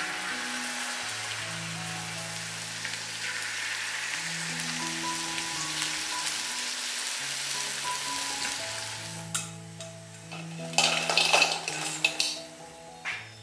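Food sizzling as it fries in a hot pan, a steady hiss that stops about nine seconds in. Then a utensil scrapes and clatters loudly against the pan several times.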